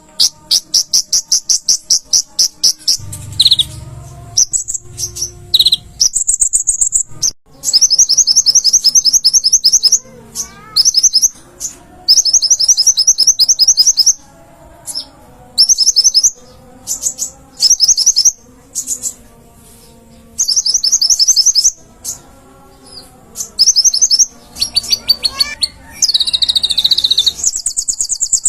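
Konin (kolibri ninja sunbird) singing in full song: loud bouts of rapid, high-pitched trilled notes, each lasting a second or two, repeated one after another with short pauses.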